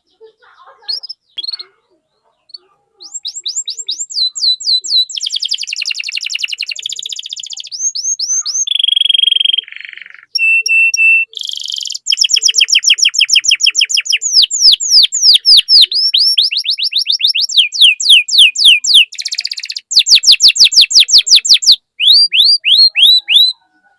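Domestic canary singing a long, loud song. After a few scattered chirps, it runs into fast trills of repeated down-sweeping notes and dense rolls, with a couple of short held whistled notes about halfway through.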